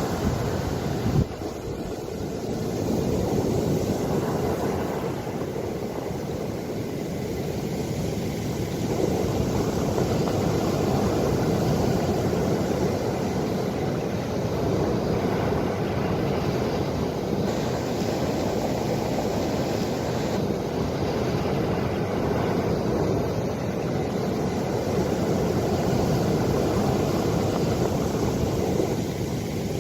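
Ocean waves washing onto the shore: a steady rushing noise, heaviest in the low range, that swells and eases slowly.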